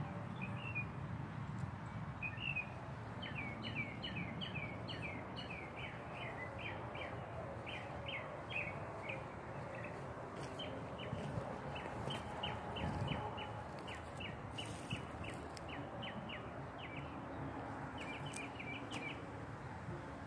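A small bird chirping over and over in quick, short, high chirps, a few a second, that stop about a second before the end. A low steady outdoor rumble lies underneath.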